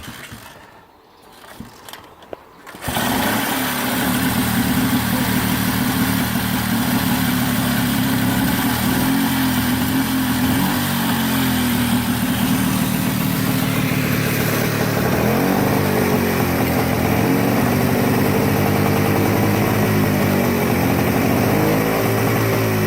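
A 1935 Francis-Barnett Seagull's 250cc two-stroke single being kick-started: a few knocks, then it catches about three seconds in and runs steadily on choke. In the second half the revs rise and fall a little.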